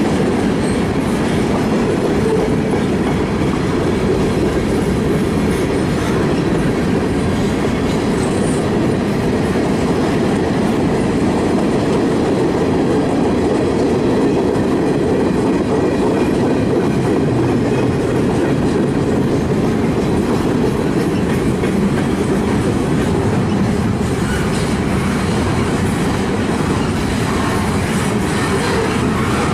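Freight cars of a mixed freight train rolling past at slow speed: steel wheels on the rails, a steady rolling noise with no break.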